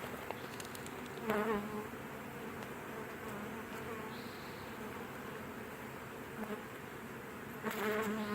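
Honeybee swarm buzzing steadily as the bees move into a hive. The buzz swells briefly about a second in and again near the end.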